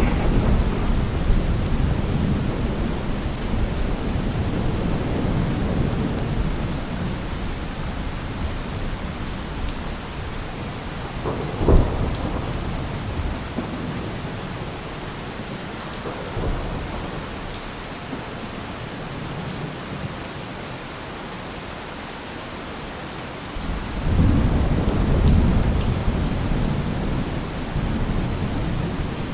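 Steady heavy rain with thunder: a rumble fading over the first several seconds, a sharp lightning crack about twelve seconds in and a smaller one a few seconds later, then a long rolling rumble building up near the end.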